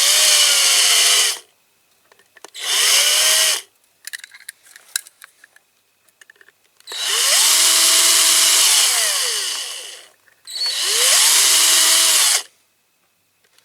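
Small electric drill drilling out the rivets that hold the base of a diecast model car, in four bursts. The motor whine rises as each burst starts and falls as the trigger is let go, with small clicks and scrapes between bursts.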